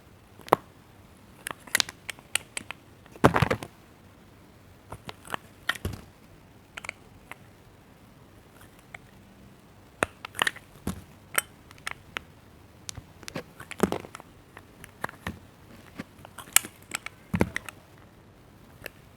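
Knife cutting into bars of soap and soap cubes, giving scattered crisp crunches and clicks with quiet gaps between. The loudest cluster comes about three seconds in.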